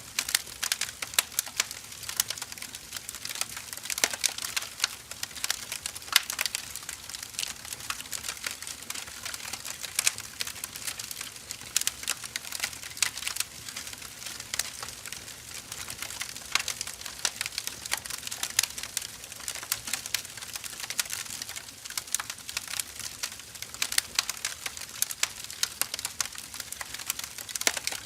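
Wood fire burning, with dense irregular crackles and pops over a steady hiss.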